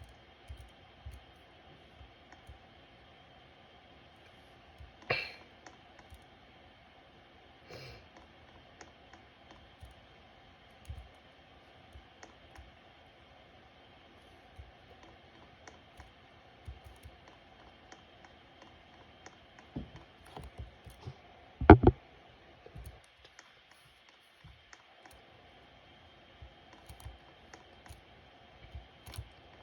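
Ceiling fan running with a faint steady hum, with scattered light clicks and knocks. A sharp double click, typical of a pull-chain speed switch, comes about two-thirds of the way through; the hum then drops out for a couple of seconds and comes back.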